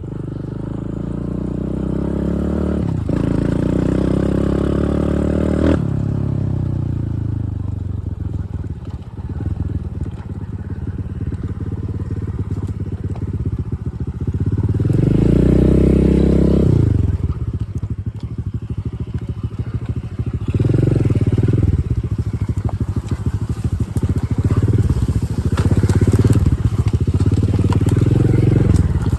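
Dirt bike engine revving under way. It climbs in pitch through two quick gear changes, eases off, then comes a loud rev and several short bursts of throttle.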